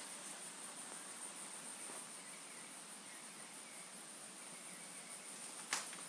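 Outdoor chorus of insects, likely crickets, trilling steadily at a high pitch, with one sharp click near the end.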